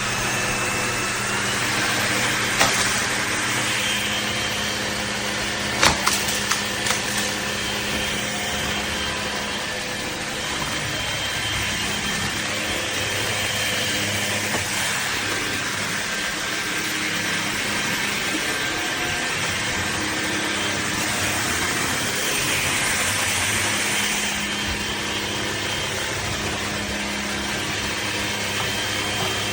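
LEVOIT LVAC-200 cordless stick vacuum switched on, its motor whining up to speed and then running steadily with a high whine. A few sharp clicks and knocks come about two and a half and six seconds in.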